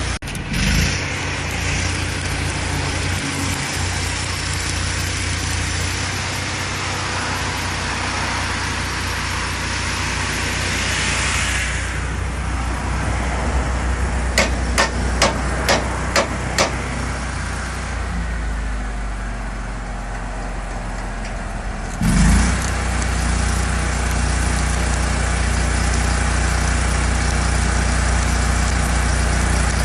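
Motor vehicle engine running steadily with a low hum. Partway through comes a quick run of about seven sharp clicks, and a thump follows a few seconds later, after which the engine is a little louder.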